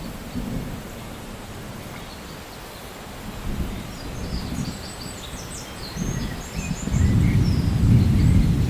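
Steady rain with a low rumble of thunder that swells and becomes loud about seven seconds in. A few short, faint high chirps sound midway.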